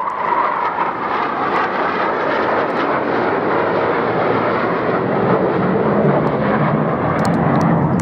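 Jet engine noise from two low-flying military fast jets passing overhead. It is a steady, loud noise that grows a little louder and deeper in the second half.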